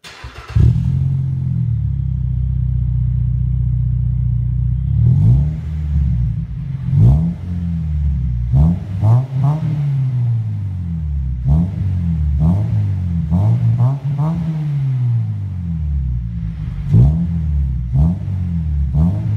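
A Mazda 2.0-litre engine through an aftermarket axle-back exhaust starts up, idles steadily for a few seconds, then is revved again and again in short blips that rise and fall.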